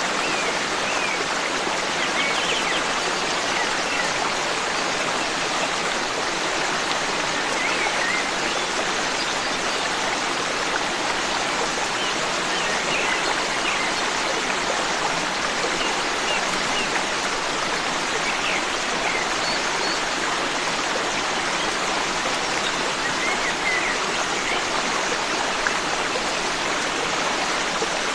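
Forest stream running steadily over rocks, with faint short bird chirps now and then above the water.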